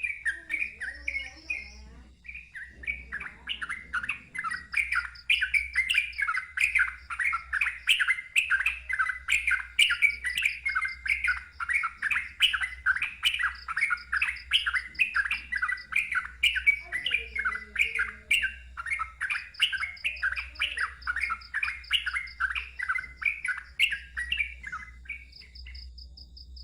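Sooty-headed bulbul (trucukan) singing loudly in a fast, rolling run of short repeated notes, about three a second, with a brief pause about two seconds in.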